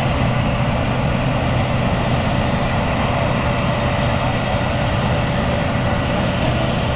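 Jet airliner engines running steadily, an even noise carrying a constant low hum and a fainter higher whine.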